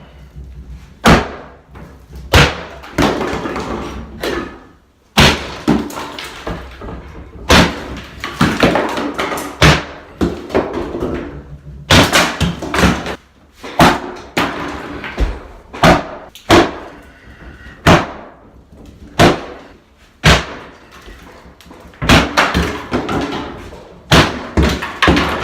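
Repeated sledgehammer blows breaking into a wall, a heavy strike every one to two seconds. Each strike is followed by crumbling and falling debris.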